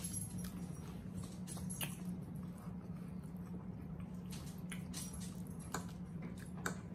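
Close-miked chewing and wet mouth sounds of people eating, with scattered small clicks and smacks, over a steady low hum.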